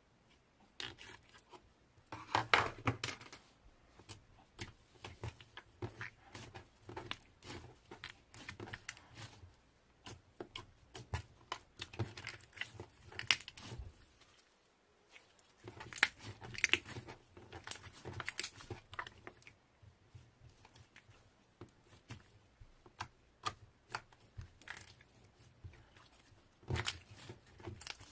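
Slime being handled: squished, pressed and stretched, giving a dense, irregular run of sticky clicks and crackles, with a brief pause about halfway through.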